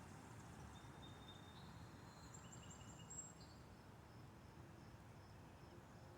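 Faint outdoor ambience: a few short, high bird chirps at shifting pitches in the first half, then a faint high note repeating about twice a second.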